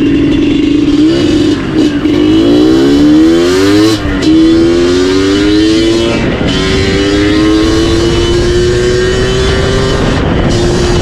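Yamaha DT 125 two-stroke single-cylinder engine breathing through an MCF tune pipe, pulling through the gears: the pitch climbs, drops sharply at a shift about four seconds in and again past six seconds, then climbs slowly once more.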